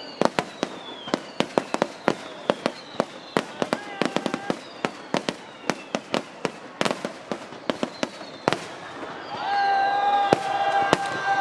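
Aerial fireworks going off in a rapid, irregular run of sharp bangs, several a second, with thin falling whistles between them. Near the end a held pitched sound joins in and the overall level rises.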